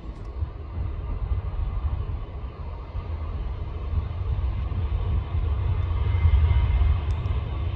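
Jet airliner's engines heard at a distance as a steady low rumble that slowly grows louder, as a Jet2 aircraft takes off.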